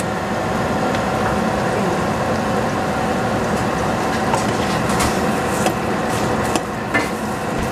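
Steady sizzling of bok choy and egg frying in a stainless saucepan over a gas burner, with a few light clicks from a wooden spatula stirring it near the end.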